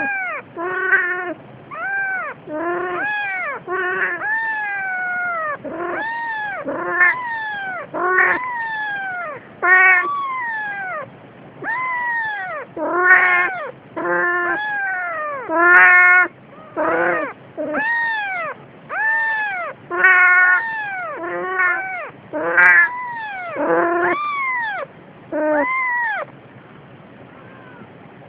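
A cat meowing over and over, about one meow a second, each call rising and then falling in pitch.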